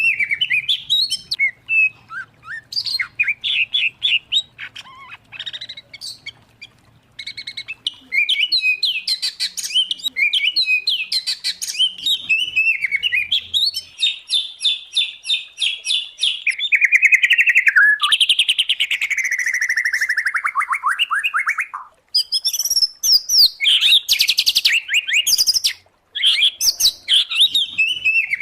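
Songbird singing a loud, fast, varied song of trills, rapid repeated notes and chattering phrases, with a long run of notes falling in pitch around the middle.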